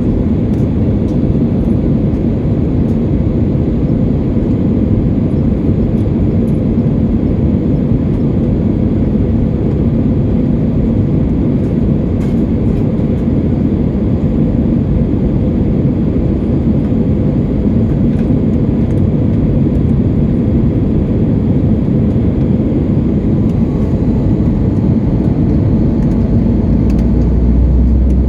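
Airliner cabin noise: a steady low rumble of engines and airflow heard from a window seat.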